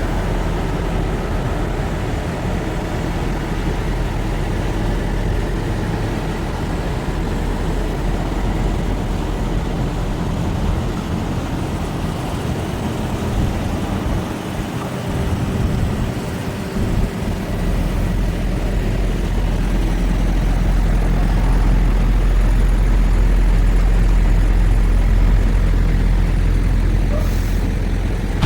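Semi-truck running down the road, heard from inside the cab: a steady low engine drone with road noise. The lowest rumble drops away for a few seconds about halfway through, then comes back louder.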